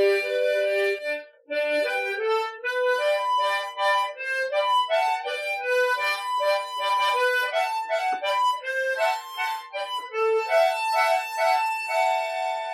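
Harmonica playing a slow ballad melody with broken-chord and broken-bass accompaniment, a series of held chords and notes with a brief pause about a second and a half in. Raw harmonica sound recorded on a smartphone.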